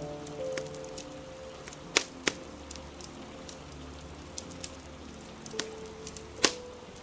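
Wood fire crackling with sharp pops, the loudest about two seconds in and again near the end, over a steady hiss of rain and faint soft music notes.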